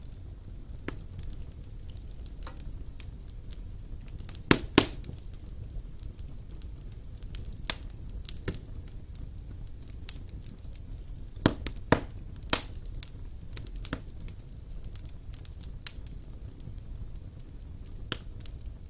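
Wood fire burning in a fireplace: a steady low rumble of flames with scattered crackles and a few sharp pops. The loudest pops come as a pair about four and a half seconds in and as a cluster of three around eleven to thirteen seconds.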